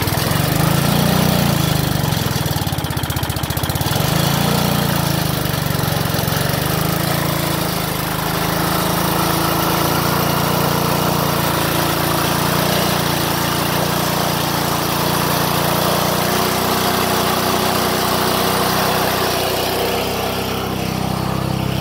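Small primer-bulb lawn-equipment engine running steadily after a cold start at about 36 degrees. It catches just after being primed, with a somewhat uneven first few seconds before it settles.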